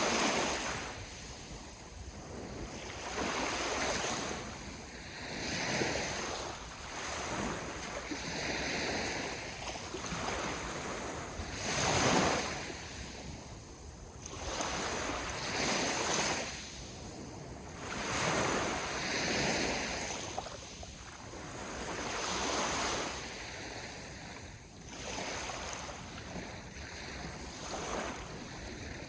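Sea waves breaking and washing on the shore, each surge swelling and fading every few seconds, the largest about twelve seconds in, with light wind noise on the microphone.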